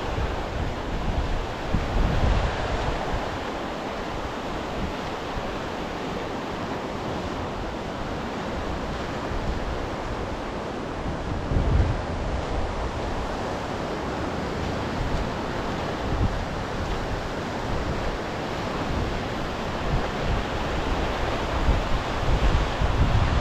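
Sea surf washing steadily on the shore, with wind buffeting the microphone in low gusts.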